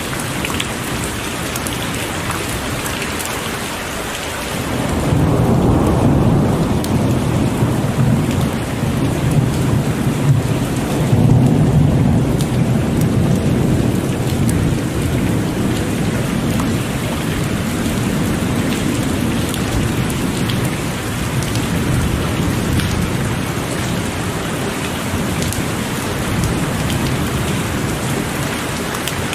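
Heavy rain pouring steadily, with a long low rumble of thunder that swells about five seconds in, peaks again a few seconds later and slowly fades.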